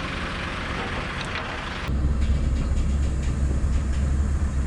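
A hiss that stops about two seconds in, then the truck's Scania V8 diesel comes in with a steady low drone under load as the rig moves off.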